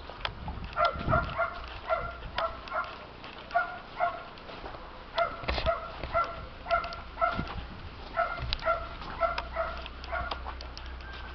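An animal calling in quick runs of short, pitched notes, two to four at a time, repeated throughout.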